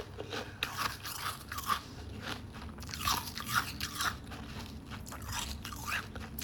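Close-up crunching of white freezer frost being chewed, a few crisp crackly bites and crunches every second.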